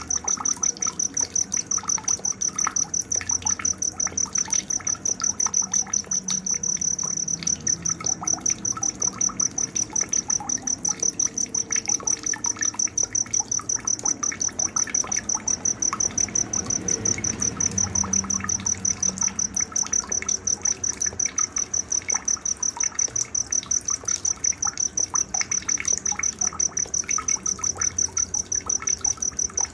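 Night nature soundscape: an insect, typical of a cricket, chirping in a steady high pulse several times a second, with scattered bird chirps beneath.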